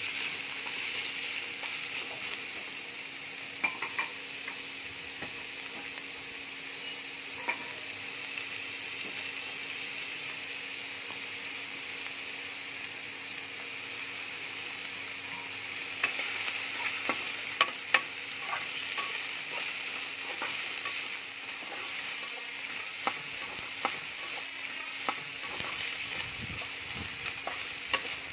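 Sliced onions and green chillies sizzling steadily in hot oil in a metal kadhai as they fry until soft. A spatula stirs them, with short clinks and scrapes against the pan, a few early and more from about halfway through.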